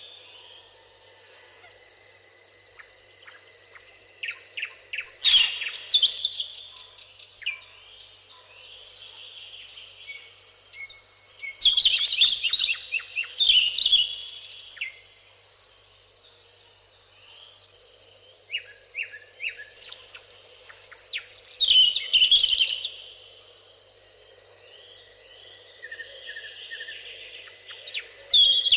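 Songbirds singing in a meadow: loud bursts of song every several seconds, with short chirps and whistles from other birds between them. A steady high-pitched tone runs underneath.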